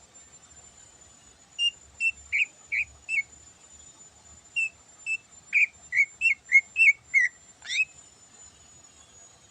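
Greater green leafbird (cucak ijo) singing: a run of five short clear whistled notes, a pause, then a faster, louder run of about nine notes ending in a quick rising sweep. A faint steady high-pitched tone sounds underneath.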